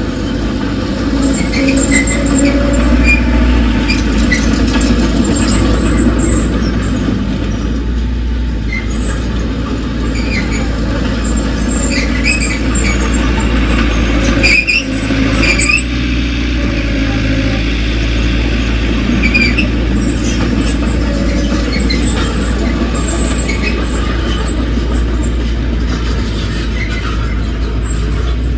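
Heavy earthmoving machine's diesel engine running steadily, with short high-pitched squeals scattered through it.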